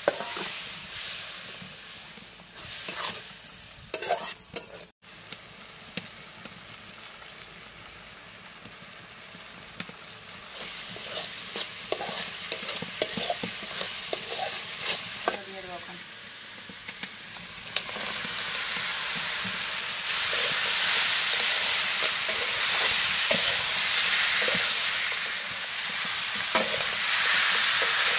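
Spice masala and goat meat frying in a metal kadai, sizzling while a metal spatula scrapes and taps against the pan as it stirs. The sizzle grows clearly louder over the second half.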